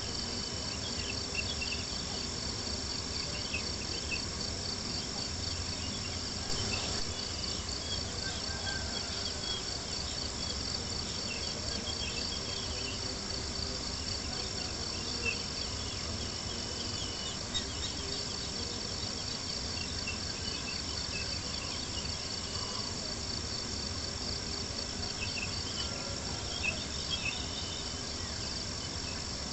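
Crickets chirping in a steady, continuous pulsing chorus, with a few faint pops and crackles of a campfire.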